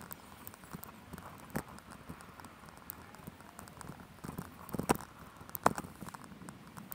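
Street and bicycle riding sounds played back at eight times speed: a fast, chattering jumble of short clicks and taps, with two sharper knocks about five and five and a half seconds in.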